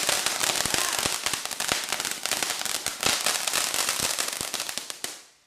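Ground firework crackling: a dense, rapid stream of small pops and snaps over a hiss, gradually thinning and fading until it stops just before the end.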